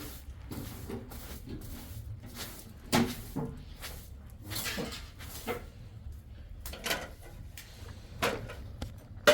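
Irregular knocks and bumps, a few seconds apart, the sharpest about three seconds in and another at the very end.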